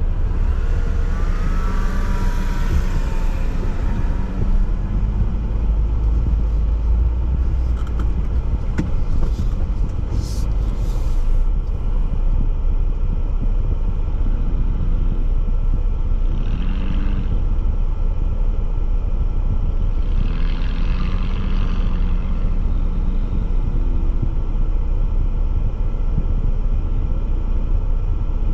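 Jeep driving off-road: a steady low engine and drivetrain rumble, with the engine note rising and falling several times as the throttle changes.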